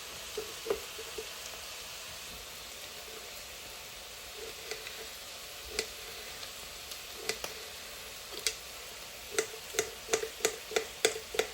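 A spoon stirring in a bowl, knocking against its sides in short clicks, scattered at first and then coming quickly, about three a second, near the end, over a steady hiss.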